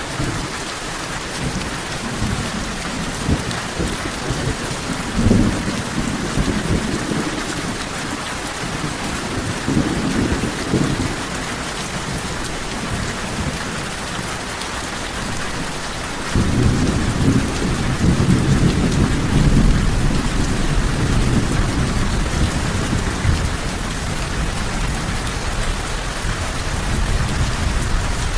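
Steady heavy rain with rumbles of thunder. Low rumbles swell about five and ten seconds in, and a longer, louder roll of thunder sets in a little past halfway and carries on under the rain.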